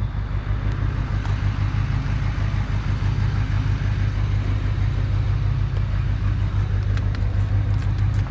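Diesel truck engine idling with a low, steady hum. A few light clicks come near the end.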